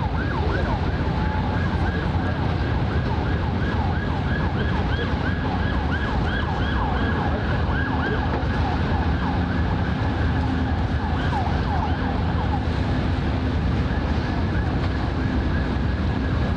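Emergency vehicle siren in a rapid yelp, its pitch sweeping up and down several times a second, over a steady low traffic rumble. The siren fades toward the end.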